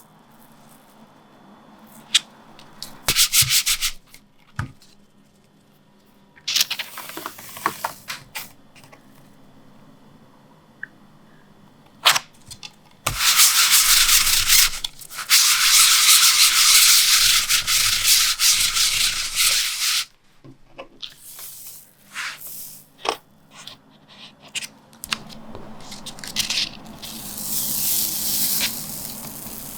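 A baren rubbed over the back of printing paper laid on an inked linocut block, transferring the print. Short bursts of rubbing alternate with pauses, with one long stretch of steady rubbing in the middle and a few light taps of handling.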